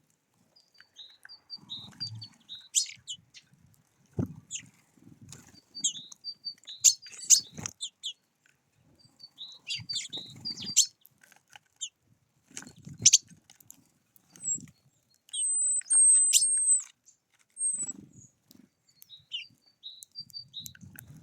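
Small songbirds at a bird feeder chirping and twittering, with sharp clicks and taps and bursts of low sound in between. About two-thirds of the way through, a high thin note is held for a couple of seconds.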